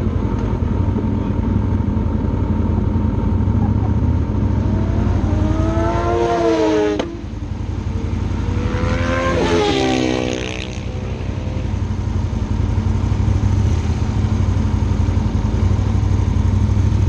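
Sport motorcycle engine running hard over a steady low rush of wind. About five seconds in, the revs climb and then cut off sharply, as when the throttle is shut or a gear is shifted. A second rise follows and then falls away a few seconds later.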